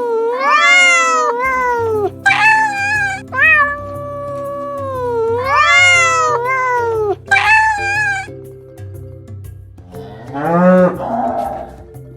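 Domestic cat meowing, a run of rising and falling meows that repeats, over light background music. About ten seconds in, a single lower call of a different animal is heard.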